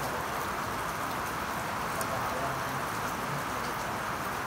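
Steady rain falling, a continuous even hiss with a few faint ticks of drops.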